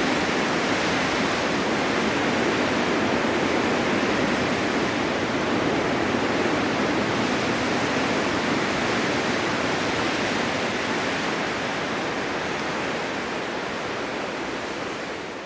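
Winter storm wind blowing steadily across open ground, an even rushing with no gusts or breaks, slowly fading out near the end.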